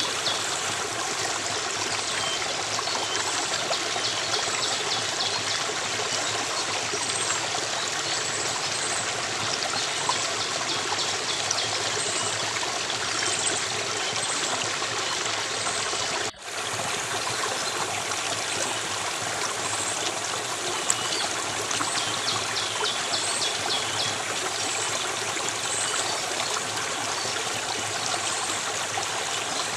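A stream of running water flowing steadily, with short high chirps of small birds repeating over it. The sound cuts out for an instant about sixteen seconds in.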